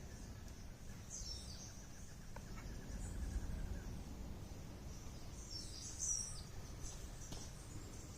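Outdoor ambience of birds chirping in short calls, loudest about a second in and again around six seconds in, over a steady high insect drone and a low rumble.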